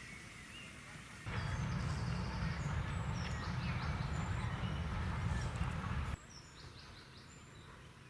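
Small birds chirping over quiet countryside ambience, with a steady low rumble that cuts in about a second in and cuts out after about six seconds.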